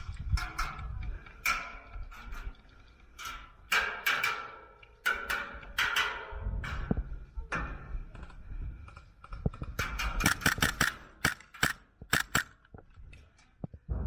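Airsoft guns firing: scattered sharp snaps, with a fast string of shots about ten seconds in, over the rustle of movement.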